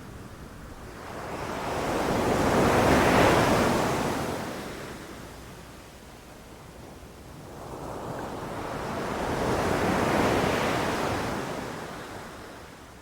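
Ocean waves breaking and washing on a beach: two swells of surf, the first peaking about three seconds in and the second about ten seconds in, easing off between them.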